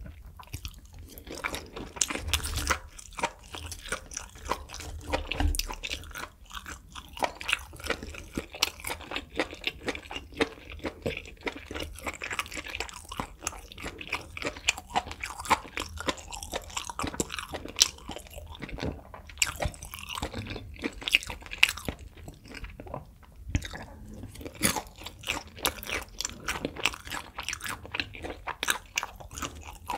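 Close-miked chewing of grilled beef intestines: a steady, irregular run of sharp clicks from the mouth as the pieces are bitten and chewed.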